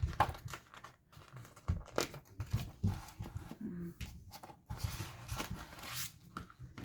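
Plastic building bricks clicking and rattling as pieces are handled and pressed together, with a stretch of rustling as loose pieces are sorted.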